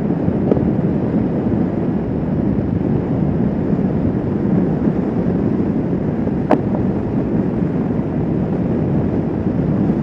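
Motorcycle riding at a steady cruise: engine running with wind rushing over the microphone in a constant low rumble. A single short click about six and a half seconds in.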